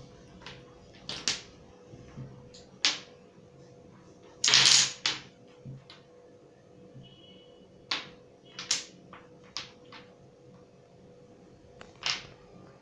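Irregular clicks and knocks of small objects being handled and set down, with one longer, louder scrape about four and a half seconds in.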